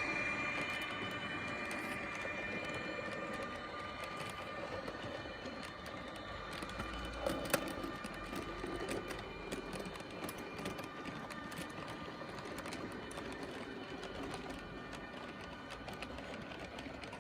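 H0-scale model train running on the layout's track: a steady mechanical rush with many small sharp clicks from wheels and track, one louder click about halfway through.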